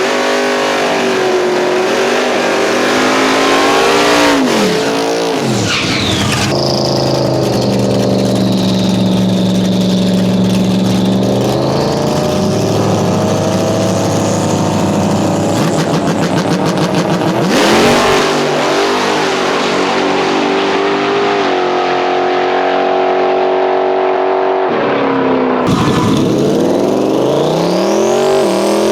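Twin-turbo 4.6-litre modular V8 drag car running and revving, its pitch rising and falling over several spliced takes, with a high whistle gliding up and down above the engine.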